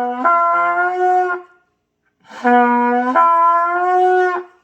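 Trumpet playing practice notes: a lower note that steps up to a higher held note, then a short pause and the same two-note phrase again. It is a beginner's exercise on the basic Do-Mi-Sol notes.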